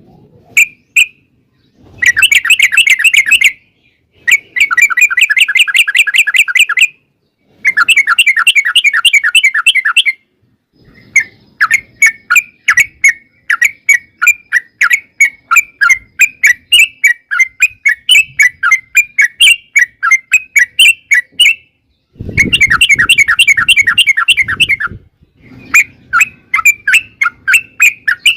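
Yellow-vented bulbul (trucuk) singing in long, rapid chattering bursts, each a dense trill lasting two to three seconds. In the middle stretch it gives an even run of separate bubbly chirps, about three a second.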